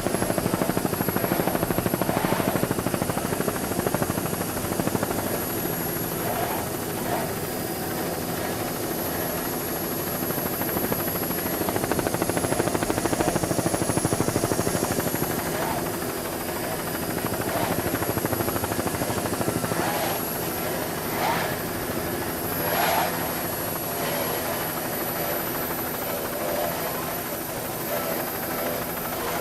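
Helicopter running steadily: a continuous drone with a thin high whine over it, swelling and easing slightly in level.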